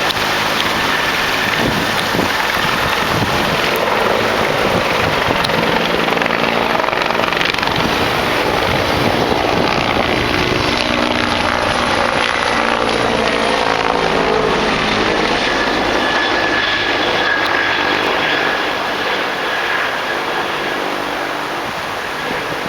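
Bell 412 helicopter running, its rotor and turbine engines loud and steady, with the pitch sliding downward midway and the sound easing off a little near the end.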